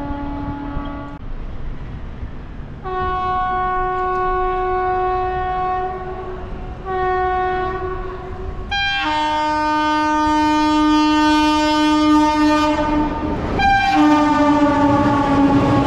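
Train locomotive horn sounding a series of blasts over the rumble of the running train. There is a short blast at the start, two blasts of about three and one and a half seconds, then a long blast of about four seconds, and a final blast a little lower in pitch near the end.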